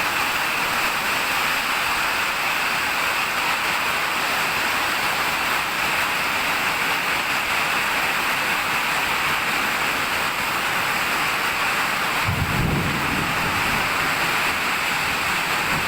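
Heavy summer-storm rain falling steadily, with a short low rumble of thunder about twelve seconds in.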